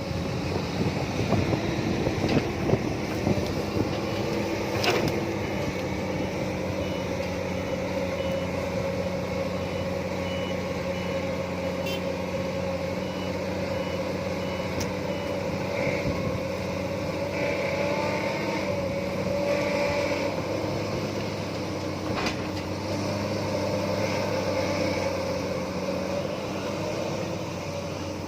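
Heavy construction machinery running steadily while an excavator loads a dump truck. A warning beeper sounds in a regular series of short beeps for about ten seconds, and a few sharp knocks cut through.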